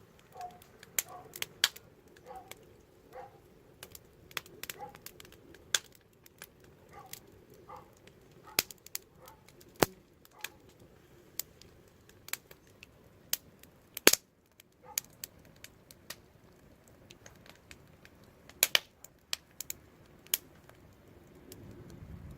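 Wood fire crackling: irregular sharp pops and snaps, at times several a second, the loudest about fourteen seconds in.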